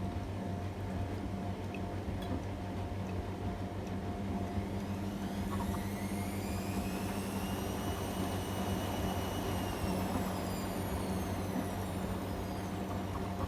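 AEG Öko-Lavamat washing machine running, with a steady hum under it. About four seconds in, the drum motor's whine rises in pitch, holds, then falls away again as the drum speeds up and slows down.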